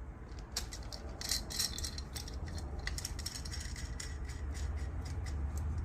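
Light metallic clicks and rattles of a basin faucet's mounting nuts being unscrewed by hand from their threaded bolts, with irregular taps as the parts are handled.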